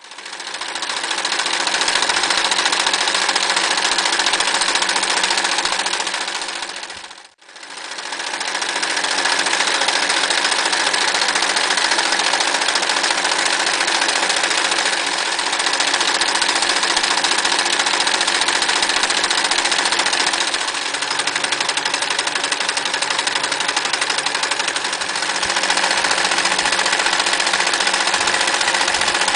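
Frister Rossmann 904 electric sewing machine running fast and stitching continuously. The sound fades out and back in about seven seconds in, then runs on, a little quieter for a few seconds past the twenty-second mark.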